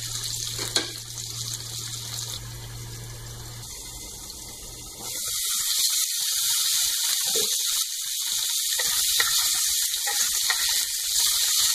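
Raw potato cubes sizzling as they fry in hot oil in a nonstick kadai, the sizzle getting louder about five seconds in. A wooden spatula stirs them near the end.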